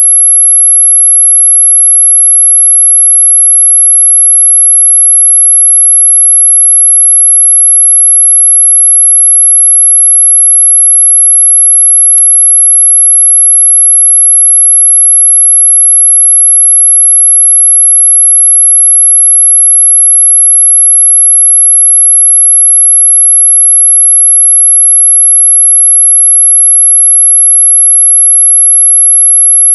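A single steady, very high-pitched pure tone, played continuously at high level: an anti-mosquito repellent tone, billed as ultrasonic but pitched high in the audible range.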